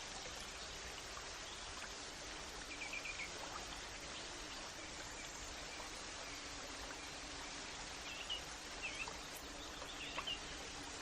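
Outdoor nature ambience: a steady rushing background noise with a few short bird chirps, a small cluster about three seconds in and several more near the end.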